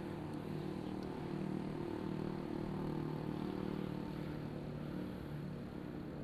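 A motor vehicle's engine running steadily, with road and wind noise.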